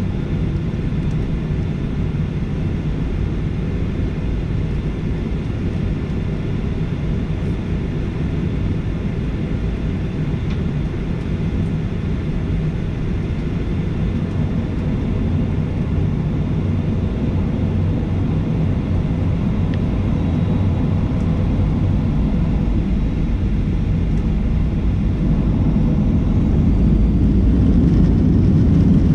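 Steady cabin noise of a Boeing 737-800 with its CFM56 jet engines running, heard from inside the rear cabin, growing somewhat louder over the last few seconds.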